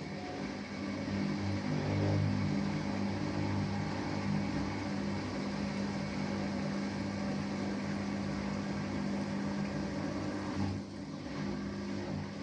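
Samsung Eco Bubble washing machine running, its inverter motor turning the drum with a steady hum that dips briefly near the end.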